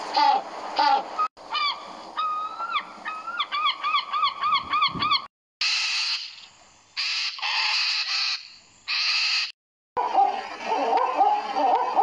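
A string of bird calls cut one after another: short repeated calls at the start, then a run of clear, repeated rising-and-falling notes, then about four loud, harsh scarlet macaw screeches in the middle, and busy overlapping calls near the end.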